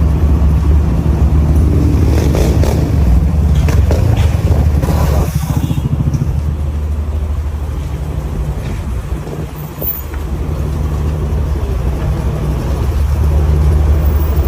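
Motor vehicle engine running with a steady low rumble. It eases off in the middle and builds again near the end.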